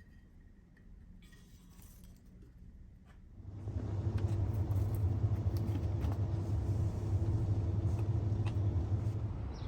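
A steady low rumble that starts about three and a half seconds in and holds, easing off near the end.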